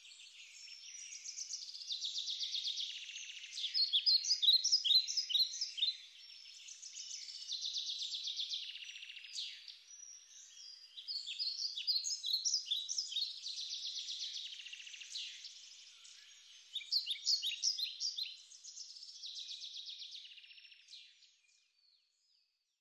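Songbirds chirping and trilling in quick repeated phrases with short pauses between them, fading out near the end.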